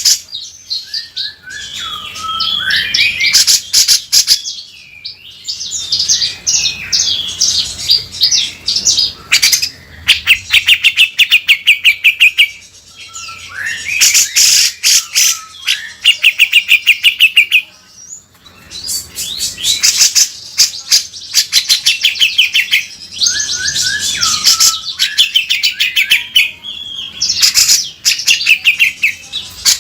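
Cucak jenggot (grey-cheeked bulbul) singing loudly and continuously: harsh, rough 'beset' phrases and gliding notes alternating with rapid rattling runs of repeated notes lasting a few seconds each.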